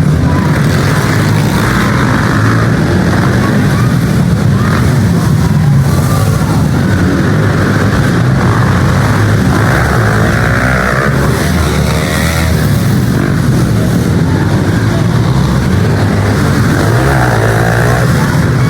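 Pit bike engines running and revving during a race, their pitch rising and falling as the riders work the throttles.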